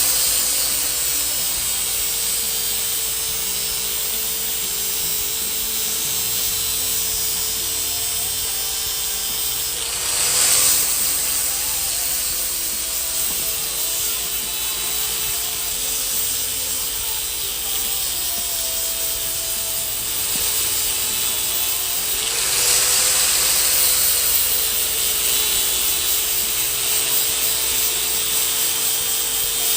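A small electric power tool's motor running steadily for a long stretch, its pitch wavering slightly and its level swelling briefly about a third of the way in and again two-thirds of the way in.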